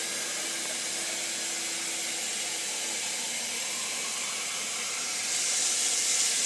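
Water running steadily from a tap, its hiss growing stronger about five seconds in.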